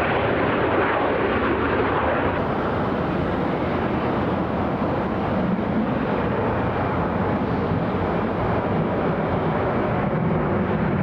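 Jet airliner engine noise: a steady, loud rush with no clear pitch, changing slightly about two seconds in.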